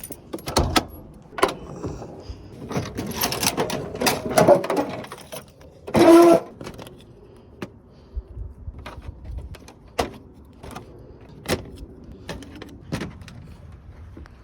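Hand tools and metal parts clicking, knocking and rattling during work on a pickup truck's radiator, with a short, loud squeal about six seconds in.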